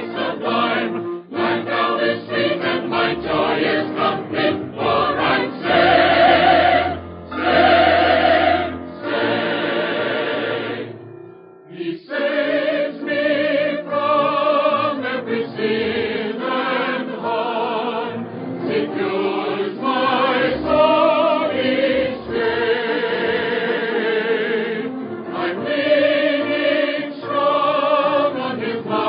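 A choir singing a hymn, the sustained notes wavering with vibrato. There is a brief break about eleven seconds in before the singing resumes.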